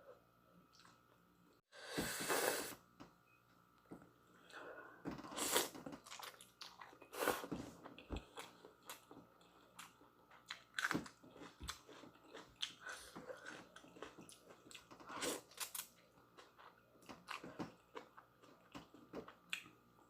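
Close-up chewing and mouth sounds of someone eating instant noodles: irregular wet smacks and clicks, with a longer noisy rush about two seconds in.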